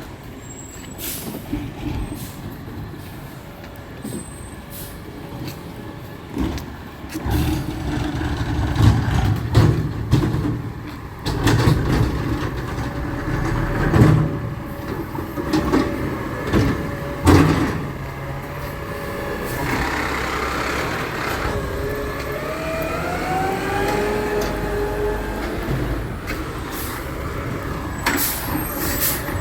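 Garbage truck's diesel engine running, getting much louder about seven seconds in, with several knocks. A hiss comes about twenty seconds in, followed by a rising whine.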